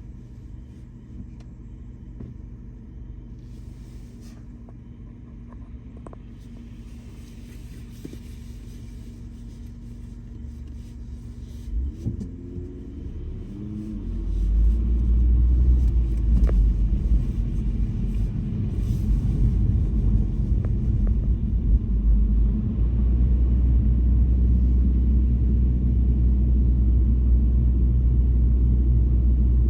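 Car engine idling steadily, then rising in pitch about twelve seconds in as the car pulls away, followed by a louder steady low rumble of the car driving.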